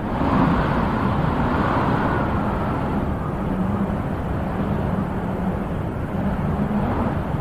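Wind blowing in a steady low rush, with a gust swelling up in the first second or two.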